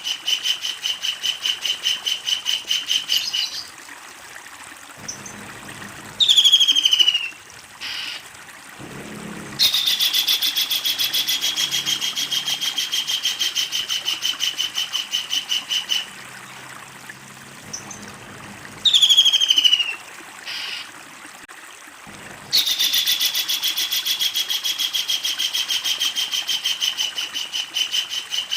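Kingfisher calling: long runs of rapid, loud, sharp repeated notes, broken twice by a short falling call and a pause, before the rapid rattle starts again.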